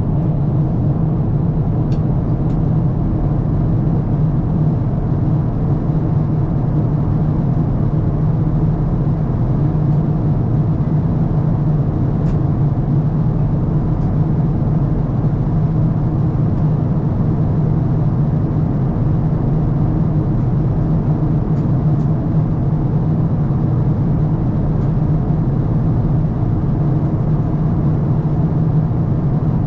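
Steady low rumble inside the cabin of an Airbus A350-1000 airliner, the drone of its Rolls-Royce Trent XWB engines and airflow, running at an even level with a few faint clicks.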